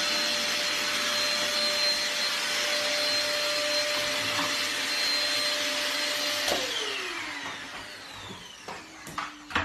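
Vacuum cleaner motor running steadily with a whine, then losing power about six and a half seconds in and winding down, its pitch falling away. A few sharp knocks follow near the end.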